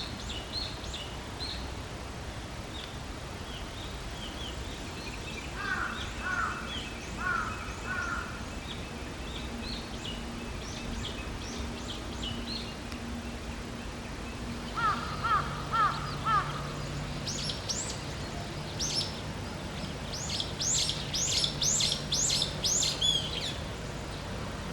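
Several wild birds singing and calling in woodland: many short high chirps and trills throughout, growing dense near the end, and two runs of lower repeated call notes, about six and fifteen seconds in. A faint steady low hum runs underneath in the second half.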